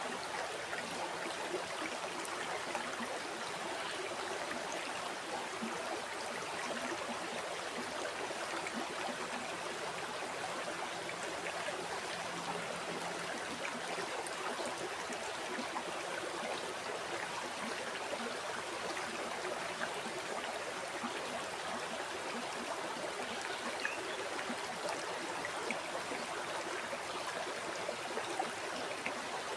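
River water flowing and burbling over rocks: a steady, even rush with small splashes and gurgles.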